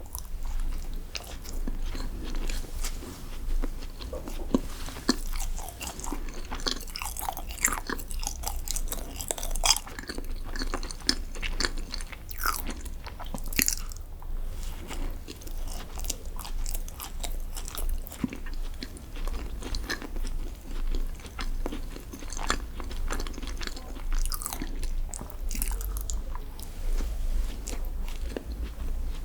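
Close-miked biting and chewing of chocolate desserts, with irregular crisp crunches and crackles throughout.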